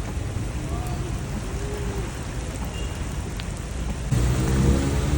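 Heavy rain pouring steadily, with a low rumble underneath. About four seconds in it gets louder and a pitched hum joins.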